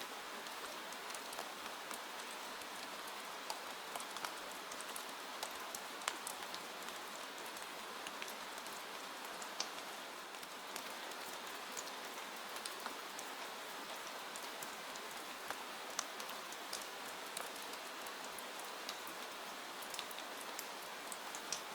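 Steady rain falling, an even hiss, dotted with scattered sharp ticks and pops, one louder snap about six seconds in and another near sixteen seconds.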